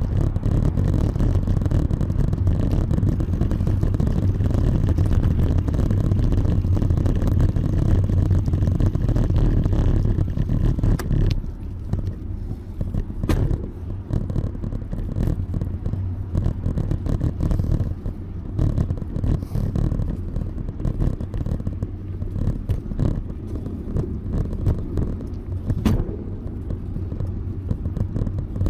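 Steady low rumble of wind on the microphone and bicycle tyres on pavement while riding, louder for the first eleven seconds, with a few sharp clicks from bumps or the bike.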